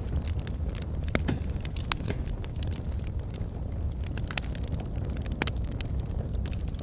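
Burning logs in a fireplace crackling, with irregular sharp pops and snaps over a steady low rumble of the flames.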